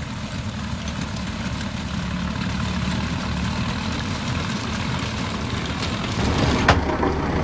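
Heavy diesel engine of earthmoving machinery running at a low, steady speed, growing a little louder about six seconds in, with two sharp metallic knocks near the end.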